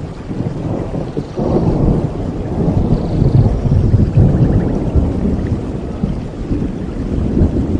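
Rolling thunder rumbling over steady rain, swelling about a second and a half in, loudest around the middle, then easing off.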